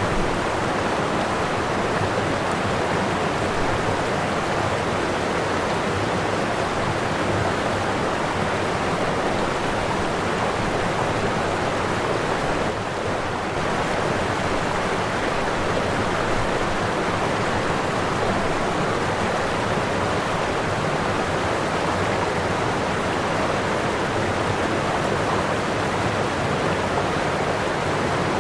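Waterfall: falling water rushing steadily, with a brief slight dip in level about halfway through.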